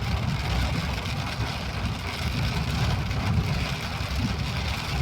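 A motor vehicle running steadily: a low engine rumble under an even hiss.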